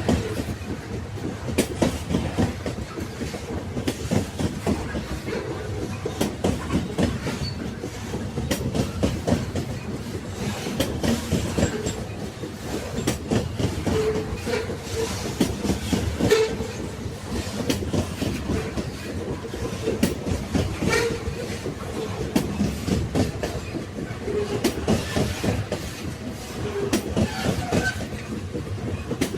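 Railway carriages rolling along the track: a steady rumble with a continuous clatter of wheel knocks over the rail joints, the loudness swelling and easing in waves.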